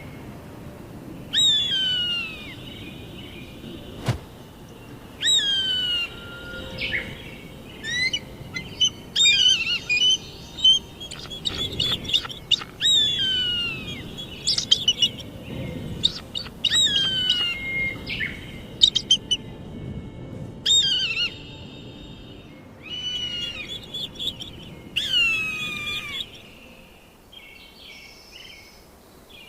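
Bird of prey screaming: a loud call that slides down in pitch, repeated about every four seconds, with shorter sharp chirps between the screams.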